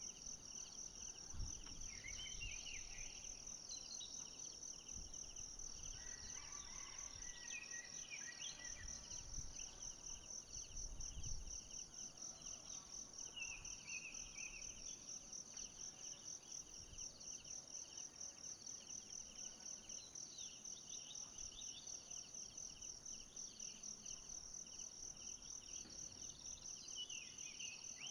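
Insect chorus shrilling steadily, high-pitched and rapidly pulsing, with a second pulsing layer a little lower. Brief chirps come in a few times, and there are two low thumps, about a second and a half in and near the middle.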